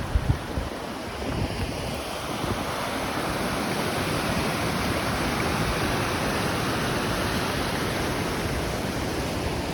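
A small waterfall rushing: a steady, even noise of falling water, with a few gusts of wind knocking on the microphone in the first second.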